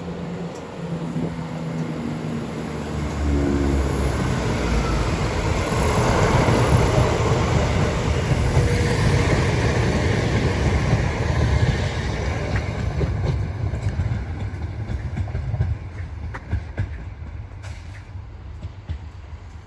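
A train running through the station. It grows louder over the first few seconds with a low steady engine note, stays loud for several seconds, then fades away.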